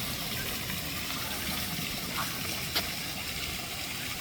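Steady rush of running water, with a couple of faint brief ticks about halfway through.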